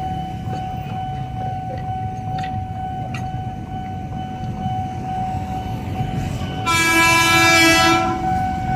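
A KRL electric commuter train, a former JR 203 series set, rumbling past. Near the end it sounds one horn blast lasting about a second and a half. A steady high tone runs underneath.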